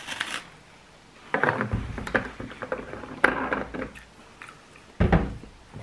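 Someone biting into and chewing a prawn-mayonnaise flavoured snack, with scattered clicks and rustles, and a low thump about five seconds in.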